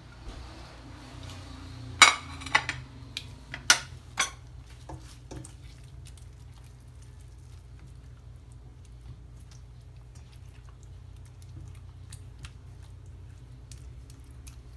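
Utensil clinking against a pan while the chicken is stirred into the cream sauce: a cluster of sharp clinks about two to four seconds in, then only light, sparse taps over a steady low hum.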